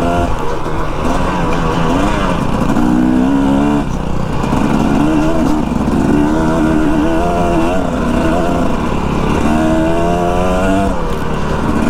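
Dirt bike engine running under way, its revs climbing and dropping several times.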